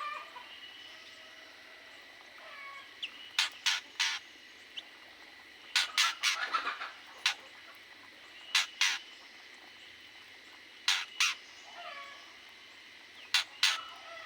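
Aviary birds calling: groups of two or three sharp, very short sounds every two to three seconds, with a busier run of them about six seconds in and fainter falling calls in between.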